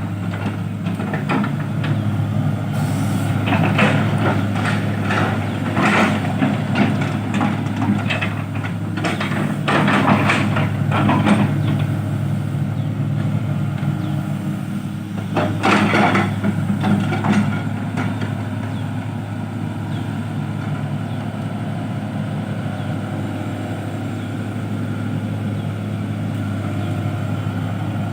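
Heavy truck's diesel engine running steadily, with irregular louder bursts of noise over it through the first half.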